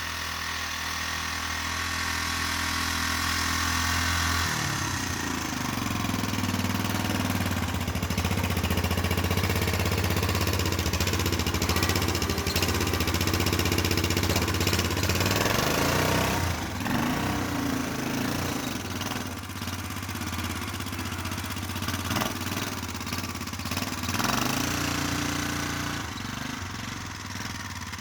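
A four-wheeler (ATV) engine running. Its revs rise about four seconds in, then hold, dip and pick up again more than once.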